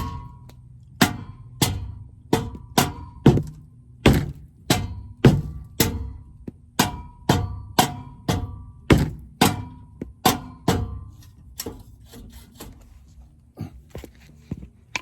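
Repeated hard strikes on the car's metal exhaust tip, knocking it loose so it can be pulled off the pipe. The blows come about twice a second, each with a short ring, and thin out near the end.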